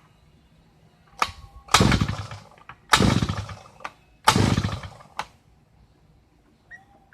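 Thunderbay Y43 power auger's small two-stroke engine being pull-started three times on its recoil starter, each pull a short whirring burst that dies away. The engine doesn't catch, matching the complaint that it won't start but acts like it's going to.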